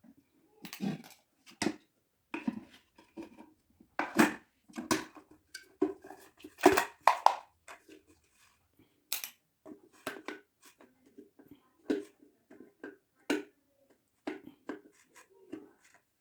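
Hands working on a dismantled electric kettle's plastic parts: irregular clicks, knocks and rattles, the loudest a little past the middle.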